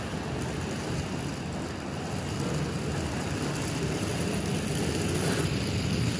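Steady low rumble of a vehicle running, with no sharp events.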